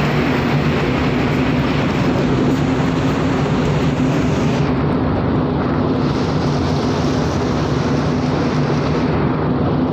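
Steady machinery drone of a cargo ship under way: a constant low hum with an even rushing noise over it, unchanging throughout.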